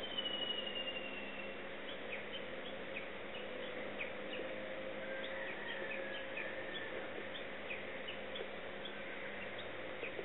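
Small birds chirping: many short, quick calls, with a longer falling whistle in the first second or so. A steady low hum runs underneath.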